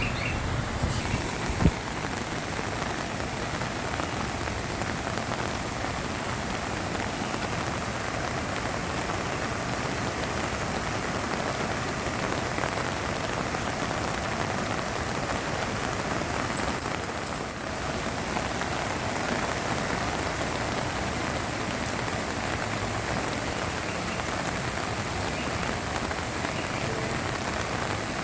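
Steady rushing of a creek in flood, an even wash of water noise with no changes. A single sharp knock about two seconds in.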